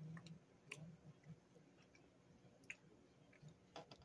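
Faint chewing of a powdered doughnut, soft and close, with a few scattered mouth clicks.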